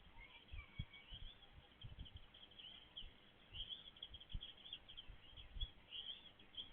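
Small birds chirping: a continuous run of short, high chirps overlapping one another, with scattered low thumps underneath.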